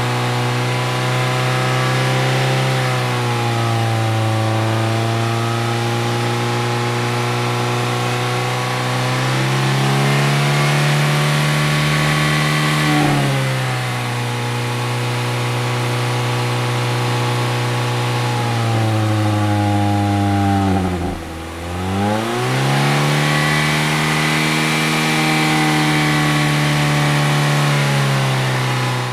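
Toyota Matrix car engine revving and easing off in turn, its pitch climbing and dropping several times. About three-quarters of the way through, the revs fall steeply and climb again.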